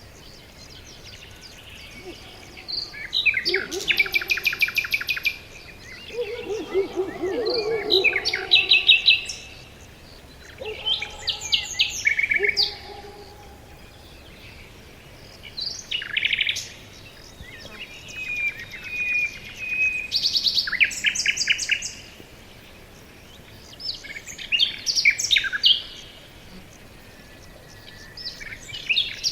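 Forest songbirds singing in separate short phrases, mostly quick high trills, with a few seconds' pause between them. A lower warbling phrase comes about seven seconds in.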